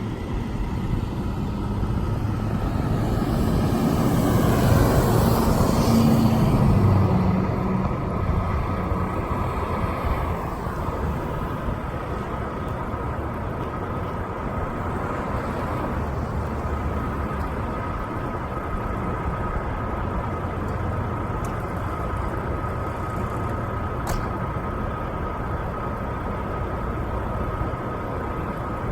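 Semi truck's diesel engine running steadily with a low rumble. A passing vehicle swells louder and fades in the first several seconds, and a faint steady high whine runs through the second half.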